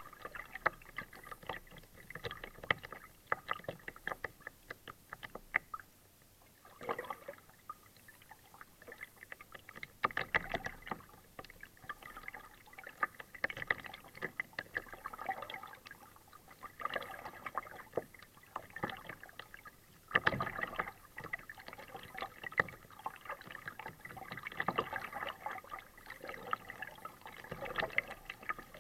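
Kayak paddling: the paddle blades dip and pull through the water with splashing and dripping, coming in clusters every few seconds.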